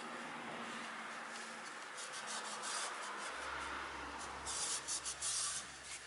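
Hand rubbing or scraping in short strokes, with a few bursts about two seconds in and a louder cluster about four and a half seconds in.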